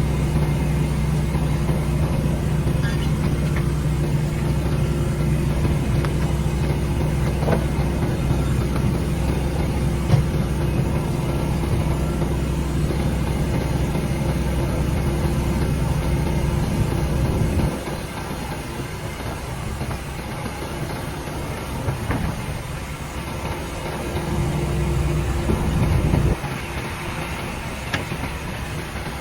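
Engine idling with a steady low hum, dropping away suddenly about two-thirds of the way through and coming back briefly near the end, with a few scattered knocks of work in the background.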